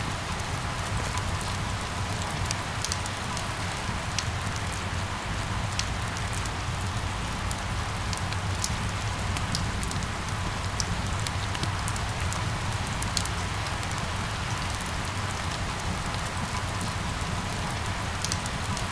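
Steady rain falling on hard surfaces, with scattered sharp drop ticks and a low rumble underneath.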